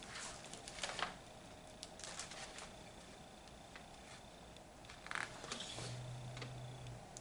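Faint paper rustling and light clicks of a picture book being handled and its pages turned, in short spurts about a second in, around two seconds in, and again past five seconds.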